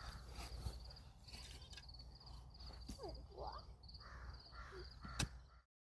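Faint outdoor ambience: an insect trilling in a steady, fast high pulse over a low hum, with a few clicks and short rising calls. It cuts off abruptly near the end.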